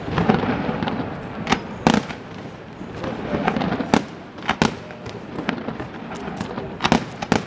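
Aerial firework shells bursting in a display: about six sharp bangs at uneven intervals, over a steady background of rumble and smaller reports.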